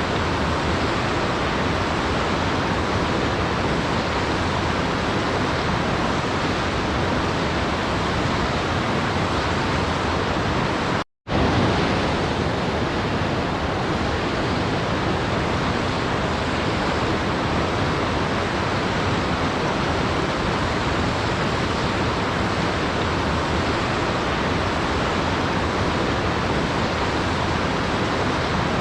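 Steady, even rushing of a waterfall, a dense hiss with no distinct splashes. It cuts out to silence for a fraction of a second about eleven seconds in, then resumes.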